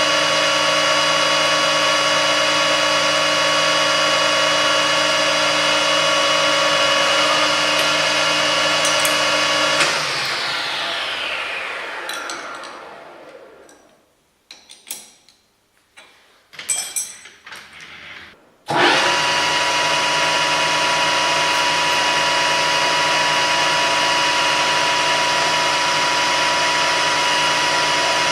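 Metal-turning lathe running steadily, then switched off about ten seconds in and spinning down with a falling whine. A few clicks and knocks while it is stopped, then it runs steadily again from about two-thirds of the way through.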